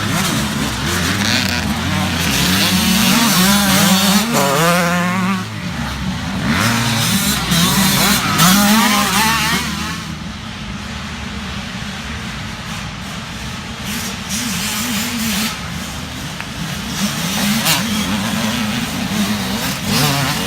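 Small youth dirt bikes racing, their engines revving up and down as they pass, with a steady engine drone under it. Louder passes come in the first half, and it quiets somewhat about halfway through.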